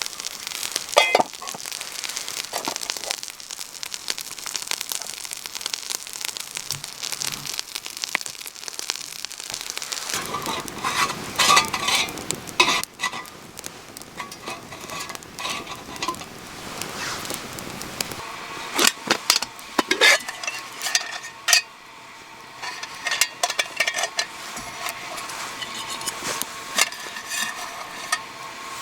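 Food sizzling in a pan over a campfire, with a steady hiss and scattered sharp clicks and clinks of a utensil stirring against the metal; the clinking is busiest in the second half.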